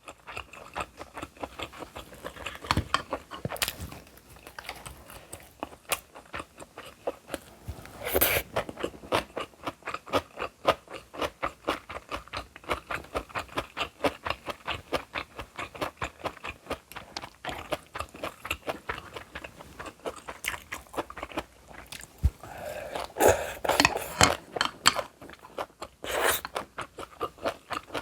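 Close-miked chewing and crunching of food, a steady run of about three or four chews a second, with a few louder bites about eight seconds in and again near the end.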